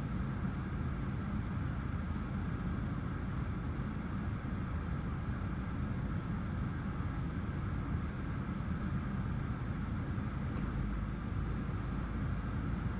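Steady low rumble with a hiss above it, unchanging, with no distinct events.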